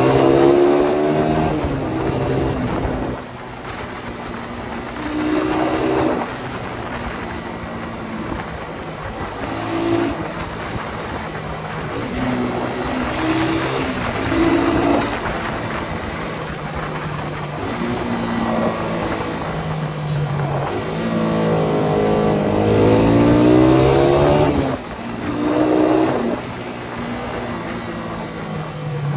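Suzuki Satria FU 150's single-cylinder four-stroke engine through an aftermarket Thai racing exhaust, revving hard. Its pitch climbs and falls back several times, with the longest climb about two-thirds of the way through.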